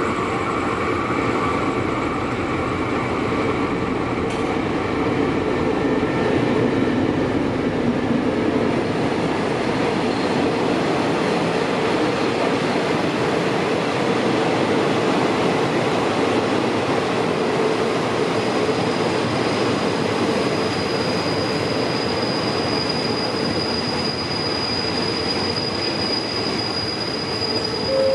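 Diesel-hauled passenger train rolling into the station, its wheels and carriages making a dense steady rumbling clatter. A thin, high, steady squeal of wheels and brakes comes in about two-thirds of the way through as it slows to a stop.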